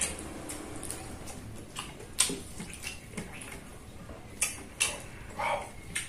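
Close-miked wet chewing and lip-smacking of a jumbo mouthful of rice and fu yung hai, with a few sharp smacks, the loudest about two seconds in. A short "wow" near the end.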